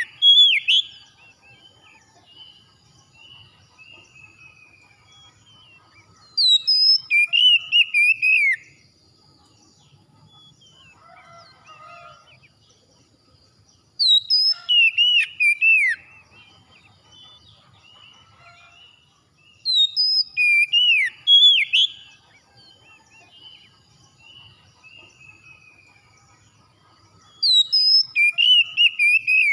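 Oriental magpie-robin singing: loud whistled song phrases of about two seconds each, repeated every six to eight seconds, with faint chirps in between.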